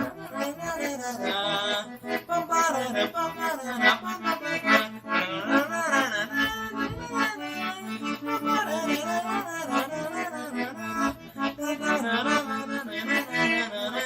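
Accordion playing a fast forró tune: a melody in the right hand over a baião rhythm of short, clipped bass-and-chord notes in the left hand.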